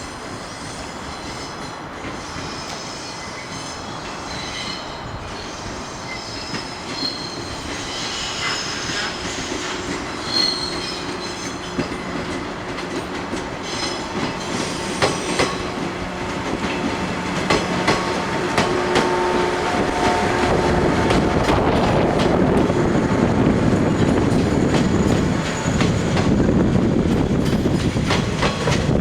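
Electric train running on rails and growing steadily louder, its wheels clicking over rail joints and squealing.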